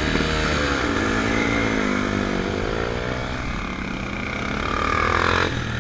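Dirt bike engine ridden slowly, its pitch rising and falling with the throttle, with a hiss that cuts off suddenly near the end.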